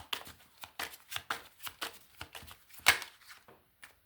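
Tarot cards being shuffled by hand: a quick, irregular run of crisp card snaps and slaps, several a second, the loudest a little before three seconds in.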